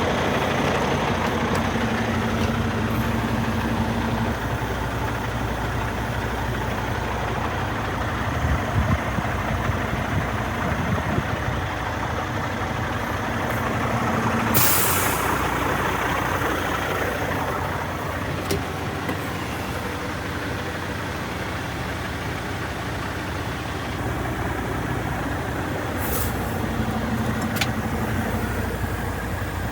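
Cummins X15 diesel engine of a 2019 Volvo VNL truck tractor idling steadily, with a short, sharp hiss of air about halfway through.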